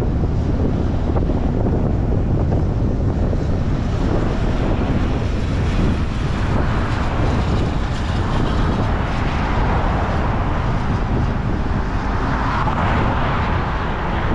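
Steady wind rumble on the microphone, with a rushing noise that swells in the middle of the range in the second half.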